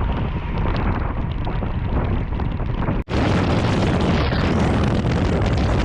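Loud, heavy rumbling noise of wind on the microphone of a moving motorcycle. Two clips are cut together about three seconds in.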